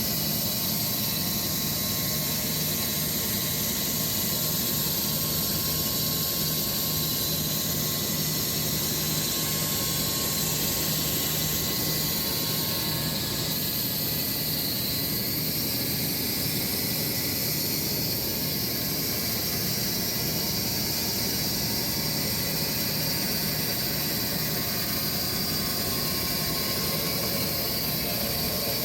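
Sawmill running steadily as its blade cuts through a Bastogne walnut log, taking the first cuts off the top: a constant high hiss over a steady low hum.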